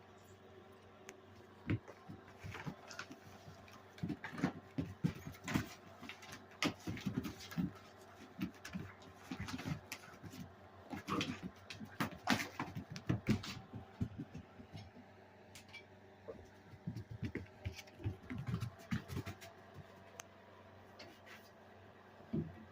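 Labrador-mix puppy playing, a quick irregular run of clicks, taps and scuffles.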